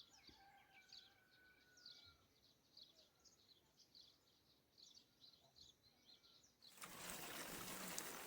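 Faint birdsong: small birds giving short high chirps over and over, with one long thin whistle in the first second or two. Near the end a steady rushing hiss starts suddenly.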